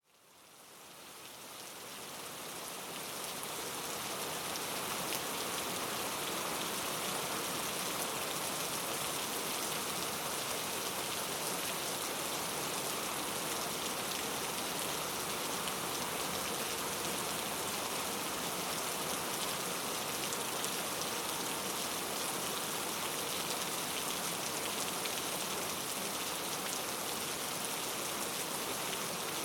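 Rainforest rain falling steadily, a dense even hiss of drops that fades in over the first few seconds and then holds level.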